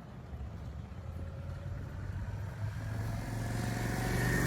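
A motor vehicle's engine running, a low rumble that grows steadily louder as it draws closer.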